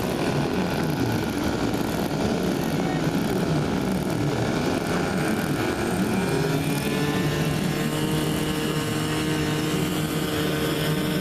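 Small propeller engines of radio-controlled model warplanes running, more than one at once. Their pitch wavers up and down, then holds steady from about halfway through.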